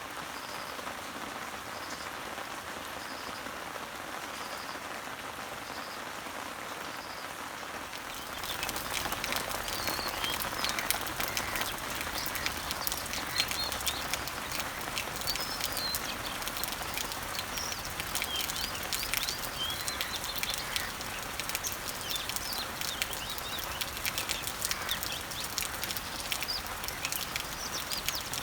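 Summer rain falling on garden leaves and trees, with birds chirping. For the first several seconds a bird repeats a single short high note about every 0.7 s over a steady hiss of rain; about 8 seconds in, the rain turns louder, with close drops tapping on leaves and more birds chirping.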